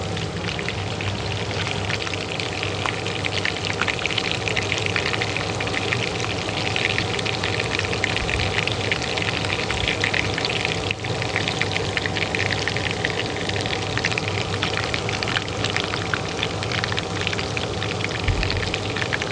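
Hot oil frying in a pan, a dense, steady crackle and sizzle, over the steady hum of a kitchen range hood fan.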